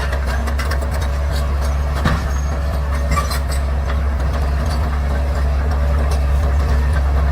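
Bulldozer's diesel engine running steadily with a deep, even hum, and scattered light clicks and clanks over it.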